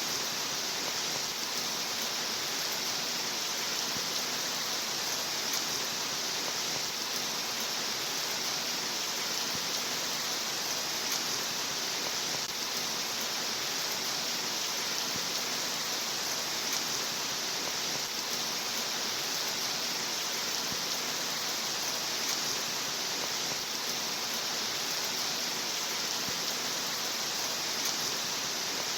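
Steady rain sound, an even hiss heaviest in the upper range, with no changes in level.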